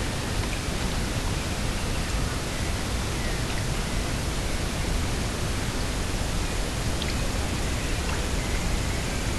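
Steady coastal wind rushing with an even, unbroken hiss and a low rumble, with a few faint, short high bird chirps.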